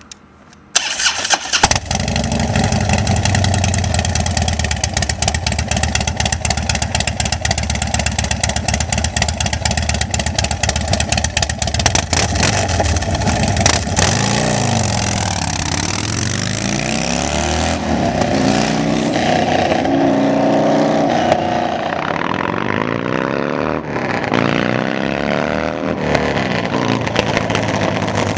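Custom 30-inch-wheel bagger motorcycle engine starting up about a second in, then running hard while the rear tyre is burned out, with a steady hiss over the engine. From about halfway the revs rise and fall over and over.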